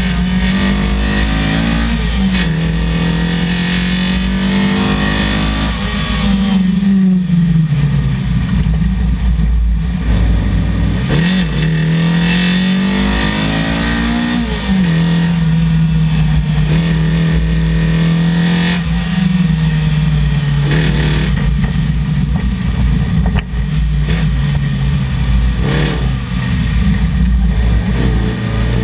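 Datsun 1200 rally car's Nissan SR20VE two-litre four-cylinder engine revving hard on a tarmac stage. Its pitch climbs under throttle and falls back about five times.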